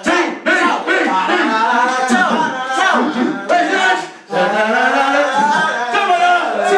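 A man's voice singing without accompaniment, in drawn-out phrases with long held notes.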